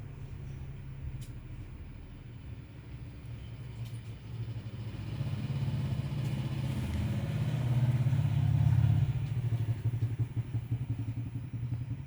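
A motor vehicle's engine running with a low, pulsing hum that grows louder to a peak about three quarters of the way through, then eases off.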